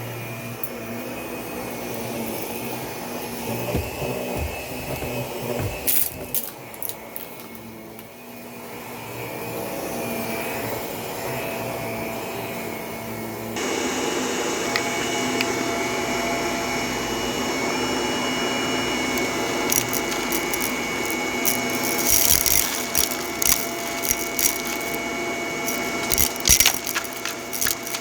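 Vacuum cleaner running steadily on carpet; its pitch and loudness step up about halfway through. In the last third, frequent sharp clicks and rattles join the motor sound.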